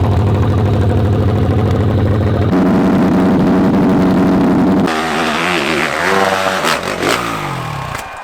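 Dirt bike engine running hard at full throttle. It holds one steady high pitch, jumps abruptly to a higher one about two and a half seconds in, then from about five seconds the revs rise and fall unevenly before fading near the end.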